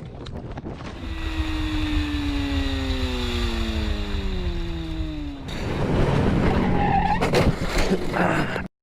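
A motorcycle engine note falling steadily in pitch for about four seconds as the bike slows. It is followed by a loud rough skid-like noise with a few sharp knocks, then the sound cuts off abruptly.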